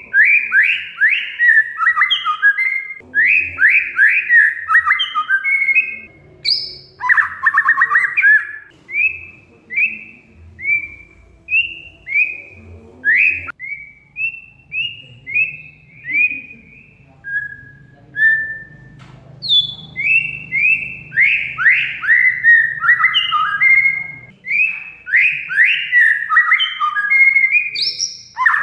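Oriental magpie-robin (kacer) singing: rapid runs of sharp, down-slurred whistled notes. The runs slow to spaced single notes midway, pause briefly, then pick up again into dense runs.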